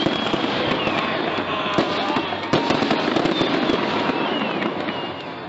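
Fireworks display: a rapid barrage of shell bursts and crackling, with several whistles falling in pitch over it; the barrage eases a little near the end.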